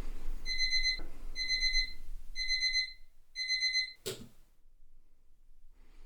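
Electronic alarm clock beeping: four high beeps about a second apart, then a sharp click, after which the beeping stops.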